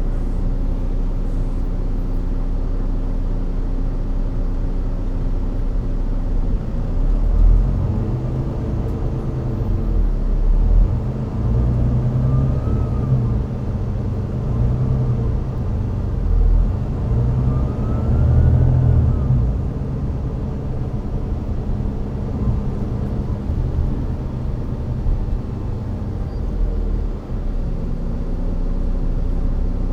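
Volvo B9TL bus's Volvo D9B-310 diesel engine idling steadily, then pulling away and accelerating from about six seconds in, with a couple of brief whines gliding up and down. It eases off and settles back to a steady idle near the end.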